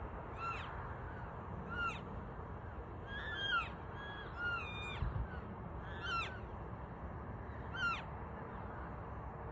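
Elk calves giving short, high-pitched chirping calls that drop in pitch, one every second or two, with two callers overlapping at times. These are contact calls from calves separated from the herd. There is a brief low thump about five seconds in.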